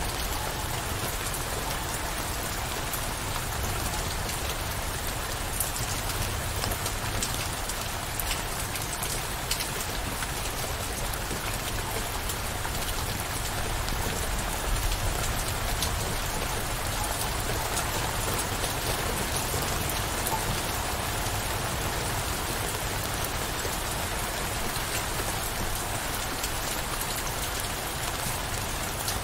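Steady downpour of rain, with many individual drops ticking against a surface through the even hiss.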